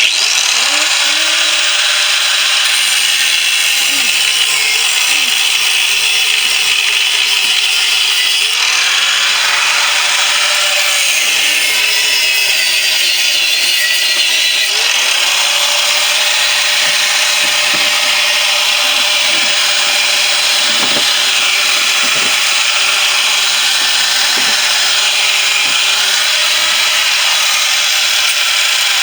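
Angle grinder with a cut-off disc cutting through the steel shell of a refrigerator compressor: a loud, steady high grinding noise whose motor pitch dips and recovers a few times as the disc bites, with occasional knocks.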